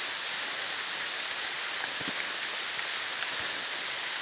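Heavy rain falling steadily, an even hiss, with a faint drop tick or two.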